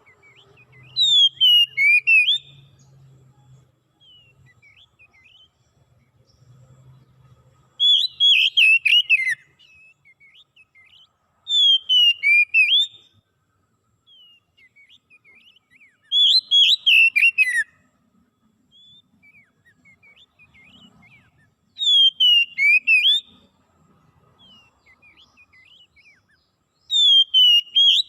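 A songbird singing the same short phrase over and over, about once every five seconds. Each phrase is a quick whistle sweeping downward, with high twittering notes over it, and faint chips come between the phrases.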